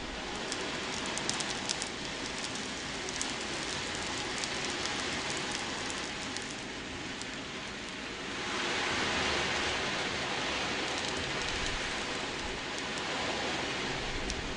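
Wave drum (ocean drum) tilted so its beads roll across the drumhead, making a steady surf-like wash with fine ticks. It swells louder about eight seconds in.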